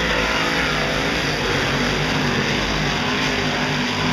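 Big-block V8 dirt modified race cars running hard around the track, a steady dense drone of several engines at once.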